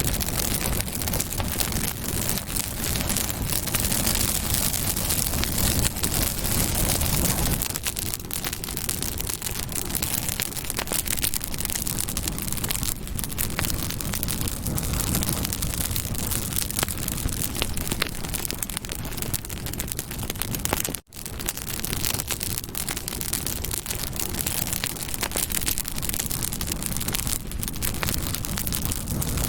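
Campfire burning with dense, continuous crackling and popping, fuller and deeper for the first several seconds. The sound cuts out for an instant about two-thirds of the way through.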